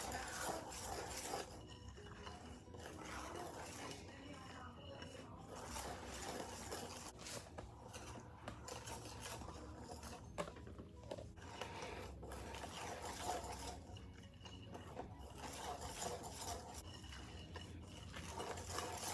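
Wire whisk stirring and scraping against a glass mixing bowl, working flour into a thick, wet cake batter: a faint, continuous rasping with brief pauses.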